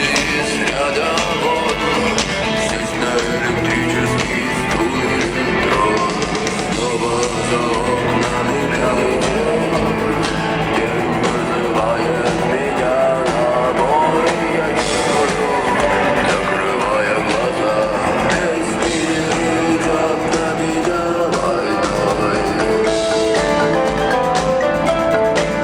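Live rock band performing: electric guitars, bass and drum kit with a sung vocal, heard through the reverberation of an arena.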